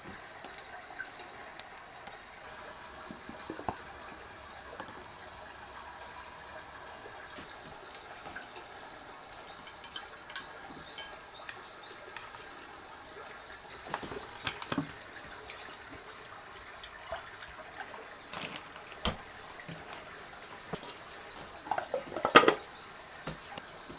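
Scattered light clicks and knocks of small objects being handled over a faint steady hiss, with a brief louder clatter about 22 seconds in.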